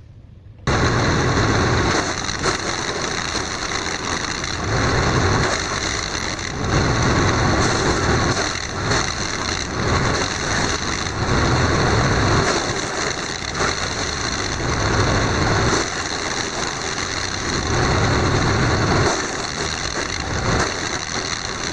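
Wood chipper running, with a steady high-pitched whine over its engine. The low engine sound swells and eases every couple of seconds. It starts abruptly.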